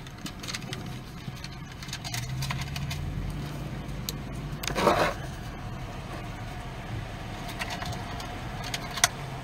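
Car interior with the engine idling and the car briefly pulling forward, a low hum that swells for a second or two. A brief louder sound comes about five seconds in, and there are a few small clicks near the end.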